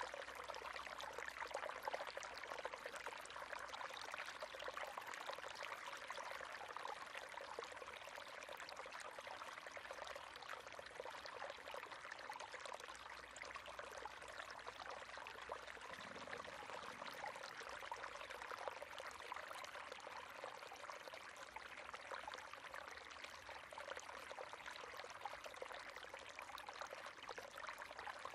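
River water running steadily, with a dense, even babble of small splashes and trickles.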